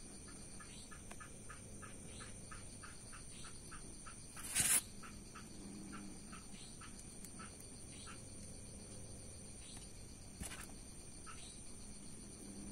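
Faint, quick, repeated chirping from a bird, about three to four calls a second, thinning out later, over a steady high insect-like drone. A short, loud noise cuts in about four and a half seconds in.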